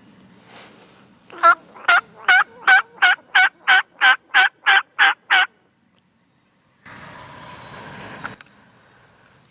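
A series of eleven loud turkey yelps, evenly spaced at about three a second. After a short gap, about a second and a half of rustling noise ends with a click.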